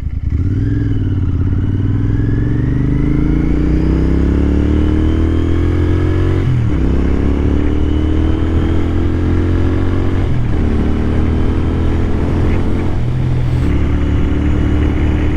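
Royal Enfield Continental GT 650's parallel-twin engine pulling hard under acceleration, its pitch climbing and then dropping at each of three upshifts. It settles to a steady cruise near the end.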